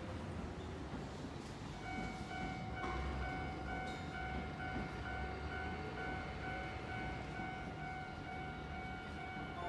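Keihan electric train running as it pulls out of the platform, a low rumble. About two seconds in, a steady high warning tone begins and keeps on, slightly pulsing.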